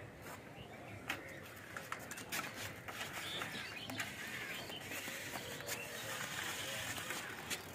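Scattered bird chirps over quiet outdoor background noise, with occasional light clicks.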